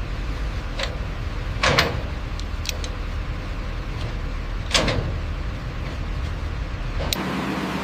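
Steady low mechanical rumble of heavy machinery, with two short hissing swells about two and five seconds in and a few light clicks. Near the end it gives way to a different steady running-machine hum.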